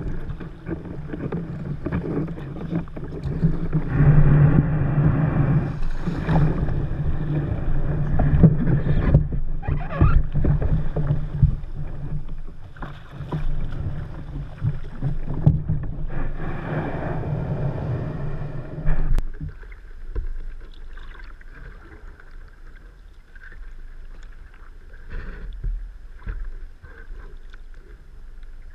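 Water splashing and rushing against a kayak hull under paddling, with knocks and clicks, dropping off suddenly about two-thirds of the way through to quieter lapping and small clicks as the kayak slows to land.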